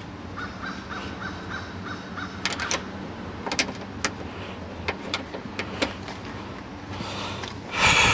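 Bird calls, a short quick run early on and one loud harsh call near the end, over scattered small clicks and taps of hand work on car door hardware.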